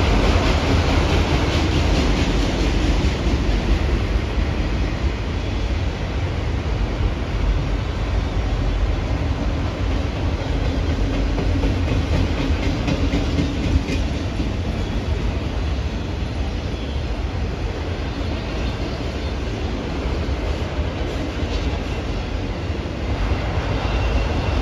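Train cars rolling by on the rails, a steady low rumble of wheels on track.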